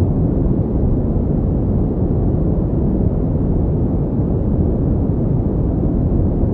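Steady pink noise: an even, unchanging hiss weighted toward the low end, so it sounds deep and soft with little treble.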